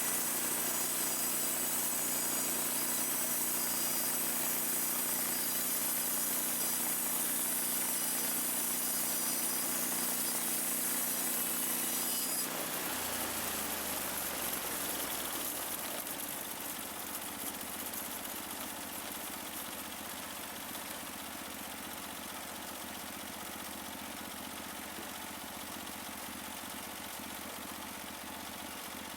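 Gas engine of a portable sawmill running at high speed with a steady high hiss. About twelve seconds in the hiss stops and the engine drops down to a lower, quieter idle.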